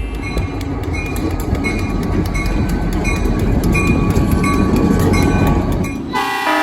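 A train running with a steady rumble and regular clicking from the wheels on the rail joints; about six seconds in, a train horn begins sounding a chord.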